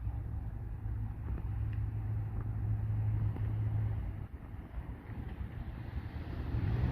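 Low, steady rumble of a distant jet airliner's engines, swelling slightly in the middle and then easing off.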